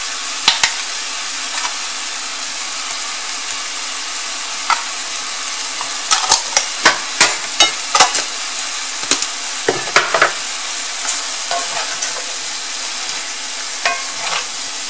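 Chicken and vegetables sizzling steadily in oil and sauce in a cast-iron skillet. A run of sharp taps and clicks comes about six to ten seconds in, and a few knocks of a wooden spoon stirring the pan come near the end.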